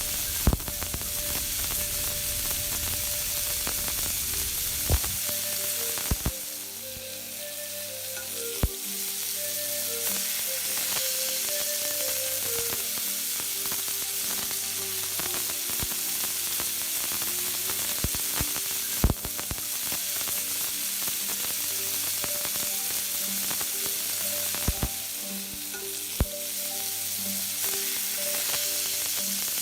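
Food frying and sizzling steadily in hot fat, with a handful of sharp knocks scattered through.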